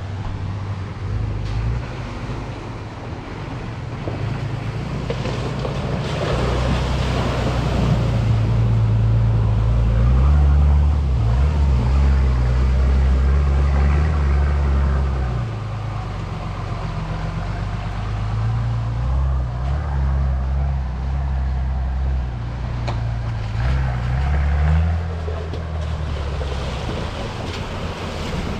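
Four-wheel-drive vehicle's engine running while driving a track, its low note stepping up and down with the revs, under a rushing noise of wind or tyres. It is loudest about ten to fifteen seconds in.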